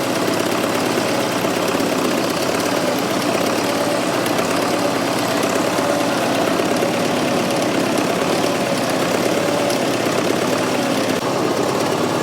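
Fordson Super Major backhoe's 3.6-litre diesel engine running steadily, with a faint steady whine over it.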